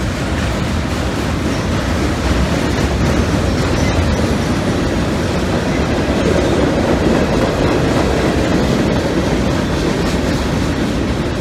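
Freight train cars, tank cars then loaded gondolas, rolling steadily past on steel wheels with a continuous rattle and clatter from the rails. It grows a little louder a couple of seconds in.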